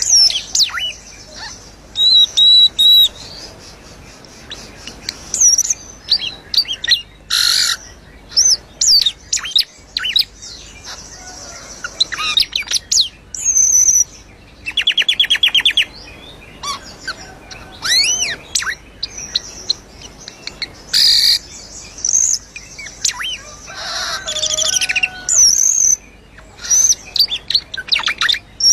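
Cucak keling songbird singing actively: a run of varied whistled phrases with rising and falling glides, broken by harsh chattering notes and, about halfway, a rapid rattling trill.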